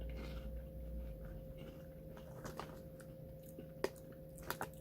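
Faint chewing of crunchy caramel corn puffs, with scattered soft crunches and one sharp click near the end.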